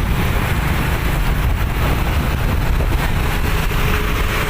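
A moving truck's steady engine rumble and road noise, with wind on the microphone. A faint steady whine comes in about three seconds in.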